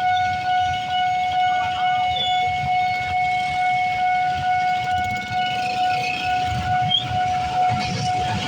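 Railway level-crossing warning alarm sounding a steady, unbroken high tone, with a low rumble underneath.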